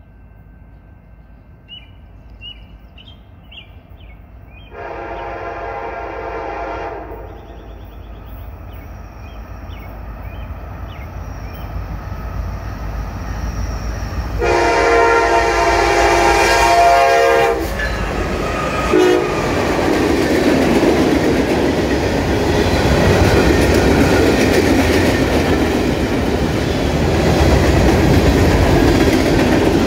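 The air horn of Norfolk Southern's Virginian heritage locomotive 1069, an EMD SD70ACe, sounds two blasts as the freight train approaches: one about five seconds in and a longer one about fifteen seconds in. The locomotives then pass and the freight cars roll by with a rising rumble and the clickety-clack of wheels on the rail.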